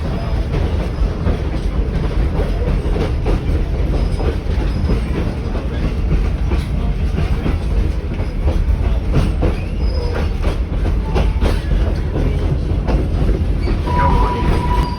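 Heritage train heard from inside a 1920s Evans passenger carriage: a steady rumble of the wheels on the track with irregular clicks and knocks, and a thin steady squeal that starts near the end.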